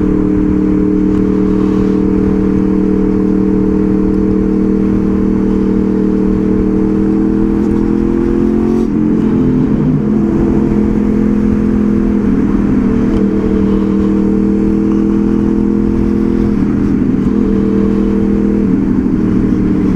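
Honda VFR800 Interceptor's V4 engine running steadily on the move, its note shifting with the throttle about halfway through, with wind rushing over the microphone.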